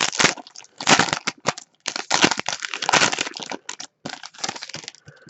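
A hockey trading-card pack's wrapper being torn open and crumpled by hand, a run of irregular crinkling and crackling.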